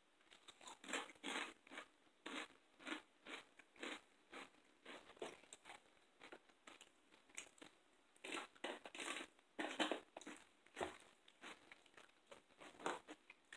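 Close-up mouth sounds of eating crisp chips: repeated short, sharp crunches and chewing, a few per second, with a louder run of crunches about eight to ten seconds in.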